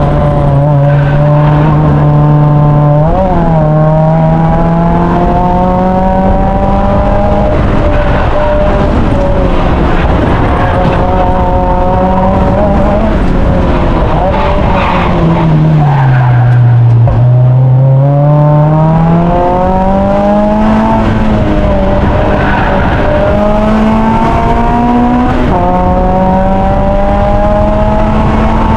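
Mazda MX-5 race car's four-cylinder engine heard from on board at full throttle, climbing in pitch through the gears with a sharp drop at each upshift. About halfway through the pitch sinks under braking and downshifting, then climbs again through the gears.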